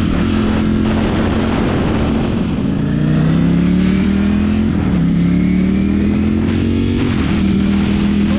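Ducati motorcycle engine heard from the bike while riding, over wind noise. It runs steadily, then the revs climb twice, dropping between the climbs as it shifts up, then settles back to a steady cruise near the end.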